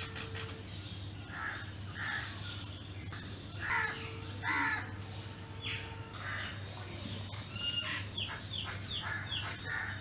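Wild birds calling: several harsh, crow-like calls in the first half, then a quick run of short falling chirps near the end, over a steady low hum.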